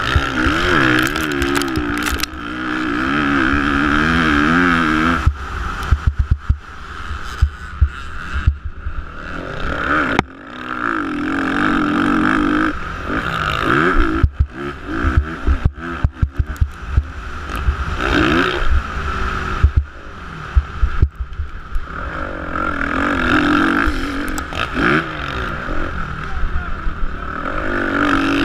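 Motocross bike engines revving up and dropping off again and again as the bikes race, with frequent sharp clicks and knocks.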